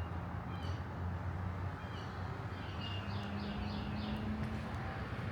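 Outdoor ambience: a steady background hiss with small birds chirping, including a quick run of four chirps about three seconds in. A faint low hum comes in under it for a second or so.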